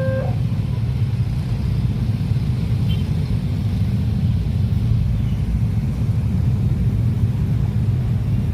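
Steady low rumble of a train rolling past a level crossing. The crossing's electronic warning tones cut off just as it begins.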